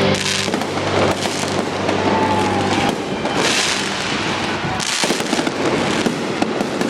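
Stadium fireworks show: a dense, continuous barrage of fireworks bursting and crackling in rapid sharp pops. Music from the stadium sound system fades out over the first few seconds.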